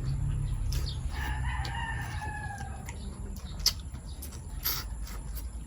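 Rooster crowing once about a second in, a long drawn-out call that falls slightly in pitch, followed by a few short sharp clicks.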